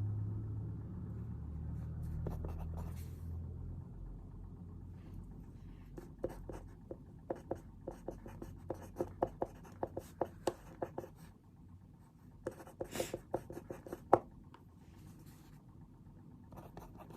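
Pen writing on paper at a desk: a run of short scratchy strokes and taps, with one sharper tap near the end. A low rumble, like a vehicle passing outside, fades away in the first few seconds.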